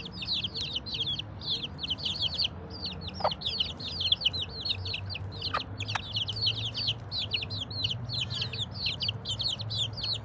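A brood of young chicks peeping nonstop, a dense high chatter of many overlapping peeps, with a mother hen clucking as she feeds them.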